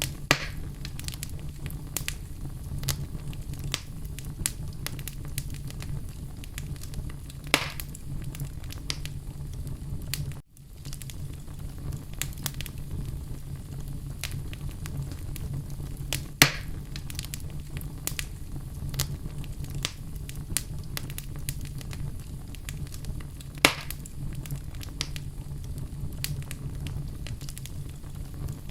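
Wood fire burning in a fireplace: a steady low rumble of flames under constant small crackles, with four louder pops spread through. The sound cuts out for a moment about ten seconds in.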